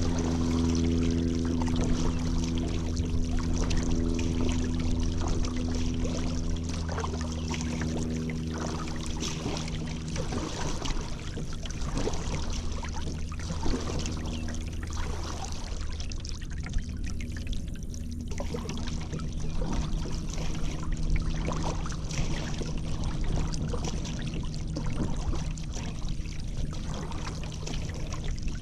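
Paddle strokes in river water: water splashing and dripping off the paddle blades at irregular intervals. Under them is a steady low drone that fades out partway through and comes back near the end.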